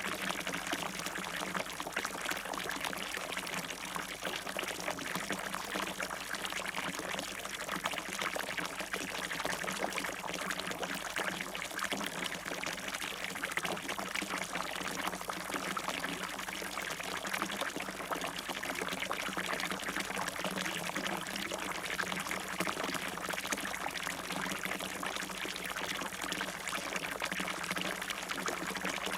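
Water falling and splashing steadily in a fountain, a continuous even splashing with no pauses.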